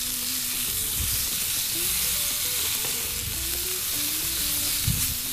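Strips of raw chicken breast sizzling on a hot ridged grill plate, scraped and turned over with a wooden spatula, with a soft knock near the end.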